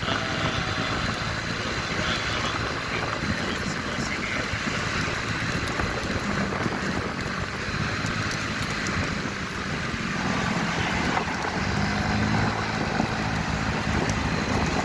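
Motorcycle ride in traffic: a steady rush of road and wind noise over a low engine hum, with the engine tone growing stronger near the end.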